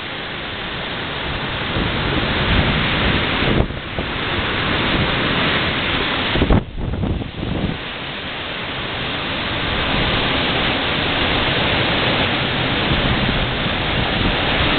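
Tropical-storm wind gusting loudly, a continuous rush with low buffeting on the microphone. It drops off sharply for a moment twice, about four seconds in and again near seven seconds, then builds back up.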